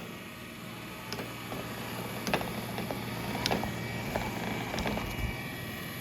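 3i G10+ robot vacuum running: a steady low motor hum with scattered clicks and knocks, and a thin high whine that comes in about halfway through.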